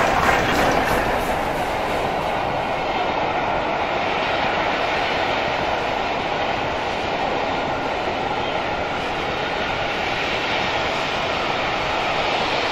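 A train passing: a steady rush of wheel and rail noise.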